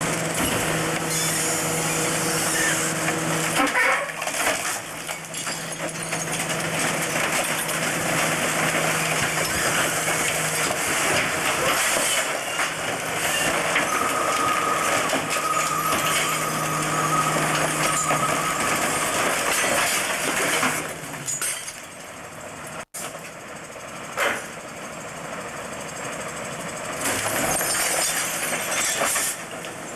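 Garbage truck's compactor crushing bulky household junk: a steady engine and hydraulic drone under cracking and breaking. It goes quieter for a few seconds about two-thirds of the way in, then picks up again.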